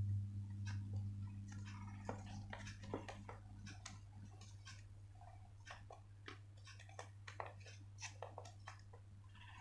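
Coloured paper being folded and creased by hand: irregular soft crinkles and taps, over a steady low hum.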